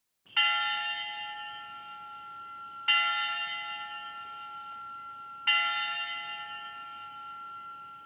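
A recorded bell striking three times, about two and a half seconds apart, each stroke ringing on and slowly fading, played from a children's sound book's small speaker.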